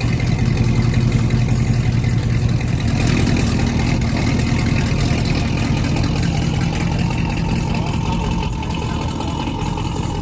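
Car engine idling close by, loud and steady, easing off a little near the end.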